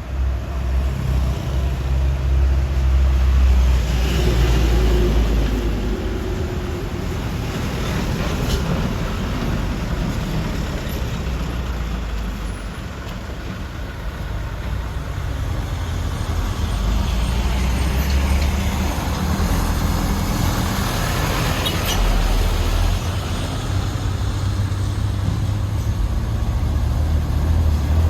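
Heavily loaded Mitsubishi Canter truck's diesel engine running as it drives, with road noise. The sound swells and eases over several seconds.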